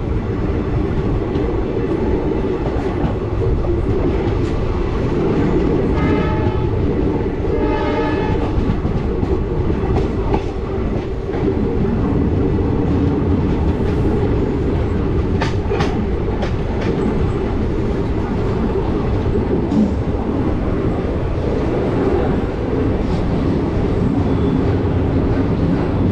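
Moving passenger train running with a steady heavy rumble and wheel clatter over the rails. The locomotive horn sounds twice in short blasts, about six and eight seconds in.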